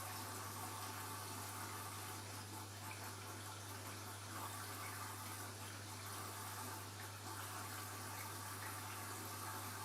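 Washing machine running with a steady rush of water, over a steady low hum.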